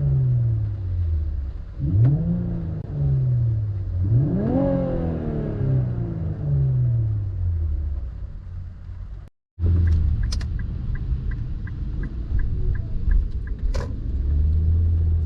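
Infiniti Q50 Red Sport 400's 3.0-litre twin-turbo V6 free-revved twice, each rev rising quickly and falling back slowly toward idle. After a short cut, the engine idles steadily, with a fast, regular light ticking and one louder click near the end.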